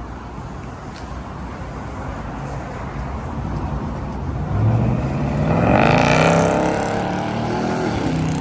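A car drives close by, its engine noise building and rising in pitch as it speeds up, loudest about six seconds in.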